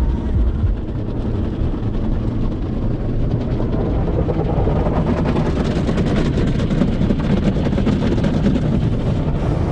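Automatic tunnel car wash working over the car, heard from inside the cabin: a steady heavy rumble of machinery and water, with a rapid pattering on the body that thickens about halfway through.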